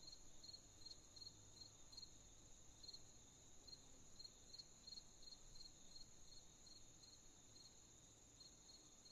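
Faint crickets chirping at night: a steady high trill with short, regular chirps over it, about two to three a second.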